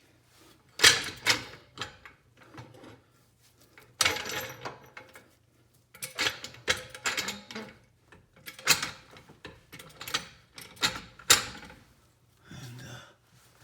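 Irregular metallic clanks, rattles and scrapes as the front drive axle and suspension parts are shifted and worked into place, with several sharp clatters and quiet gaps between them.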